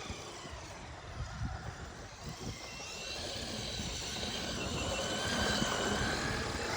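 Traxxas RC car's electric motor whining over a noisy hiss, the whine coming in about halfway through and growing louder toward the end as the car speeds up or comes closer.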